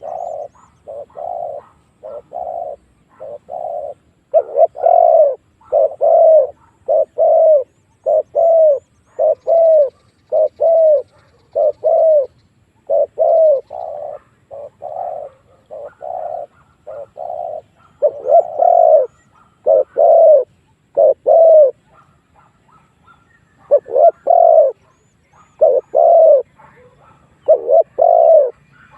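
Spotted doves cooing: short coos repeated in phrases, about one to two a second, some fainter and some louder, with a short pause a little past the middle. Territorial cooing of the kind used as a lure call to bring wild males in to fight.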